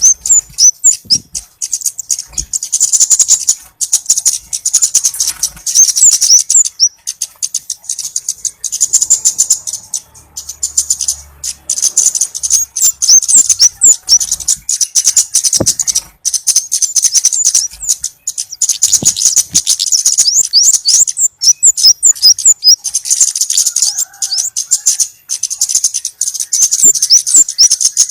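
Orange-bellied flowerpecker call used as a bird lure: very rapid, high-pitched ticking with thin chip notes, in runs of a few seconds broken by short pauses.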